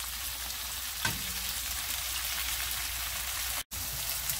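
Cubes of firm tofu frying in hot oil in a pan, sizzling steadily, with a light tap about a second in and a momentary break near the end.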